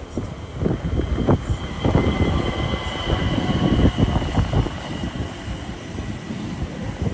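Train passing close by, its wheels clattering over rail joints in quick irregular knocks that are loudest in the first few seconds, with a steady high-pitched whine over it.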